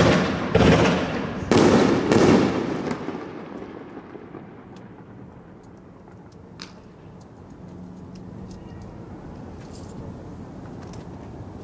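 Aerial fireworks bursting: four loud bangs in the first two and a half seconds, each rumbling away as it echoes, then a single fainter pop about six and a half seconds in.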